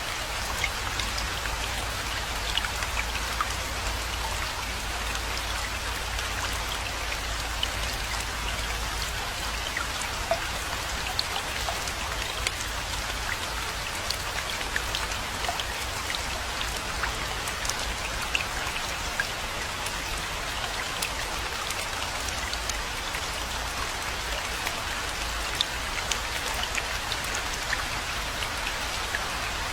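Steady rainfall, a constant hiss with many individual drop hits ticking sharply on top, over a low steady rumble.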